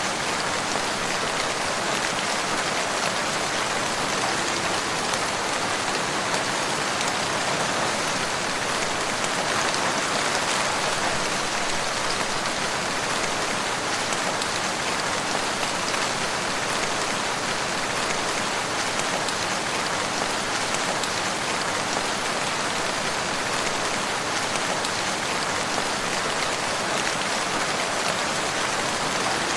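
Steady, gentle rainfall pattering, an even hiss of drops without a break or change.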